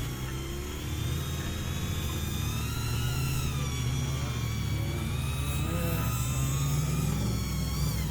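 Off-road 4x4 engine running, its revs rising and falling, with a fainter higher whine above it.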